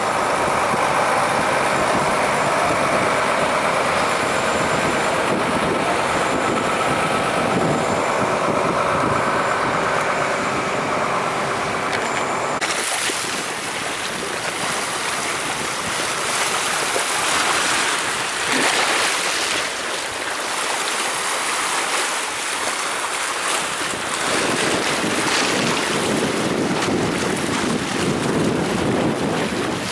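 Seaside wind and surf noise, with wind rumbling on the microphone. About twelve seconds in the sound cuts abruptly from a steadier noise carrying faint held tones to a rougher, more open rush of wind and waves.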